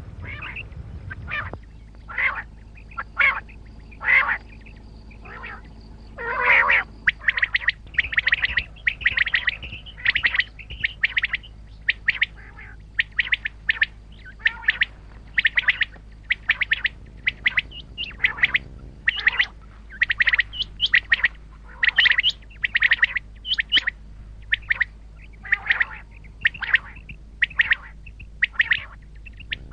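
Common quail calling over and over: short, sharp notes given in quick runs, with brief pauses between the runs.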